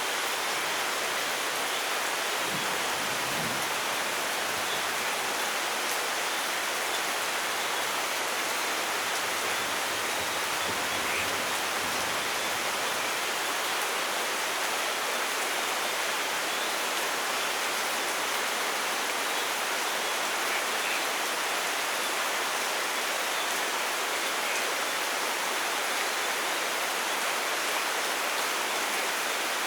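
Steady, dense rainfall, an even hiss with no let-up, with a faint low rumble of distant thunder about three seconds in.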